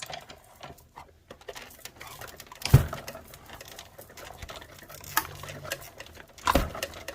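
Metal cutting dies and die-cut card stock being handled on a craft table: small clicks and paper rustles, with a sharp knock about three seconds in and another near the end.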